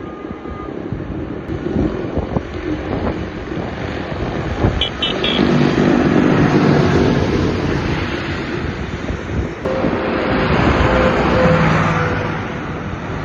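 Tractor engine running under load, rising and falling, with wind buffeting the microphone. Three short high beeps sound about five seconds in.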